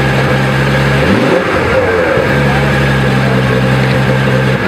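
Ferrari F12 Berlinetta's 6.3-litre V12 idling steadily, given a quick throttle blip about a second in, its pitch sweeping up and dropping back, then settling to idle again.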